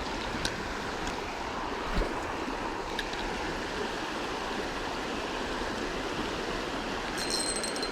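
Creek water running steadily over rocks, with a few faint clicks early on and a thin high tone setting in near the end.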